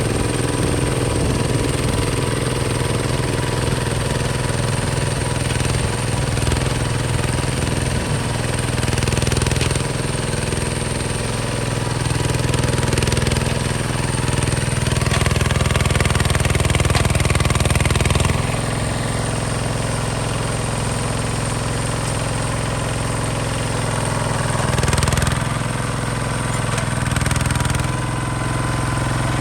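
Diesel engine of a Hinota HG Gold 155 DI tractor running steadily. Its note shifts about eighteen seconds in and swells briefly twice near the end.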